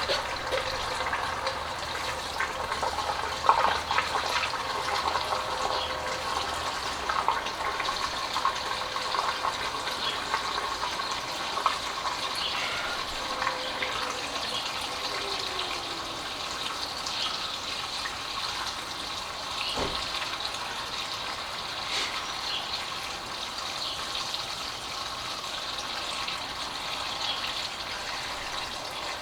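Gasoline pouring steadily into a motorcycle's fuel tank as it is refilled.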